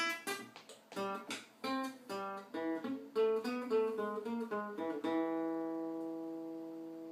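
Acoustic guitar playing a quick run of plucked notes, ending about five seconds in on a chord that is left to ring and slowly fade.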